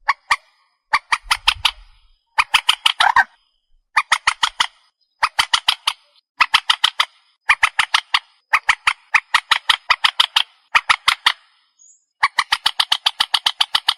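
Calls of a trích ré water bird: repeated bouts of quick notes, each bout about a second long with eight or so notes in fast succession, separated by short pauses.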